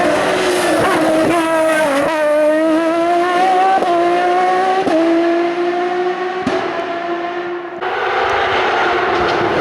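Race car engine accelerating hard, its pitch climbing and dropping back with several quick gear changes. Near the end the sound changes abruptly to a noisier engine sound.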